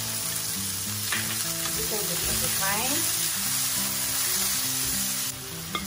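Sliced onions, mushrooms, bell peppers and cherry tomatoes sizzling in an oiled nonstick frying pan as they are stirred and turned with tongs. The sizzle eases a little near the end.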